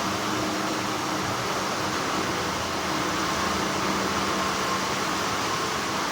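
Steady hum of textile factory machinery: an even rushing noise with a faint steady high whine and a lower hum underneath.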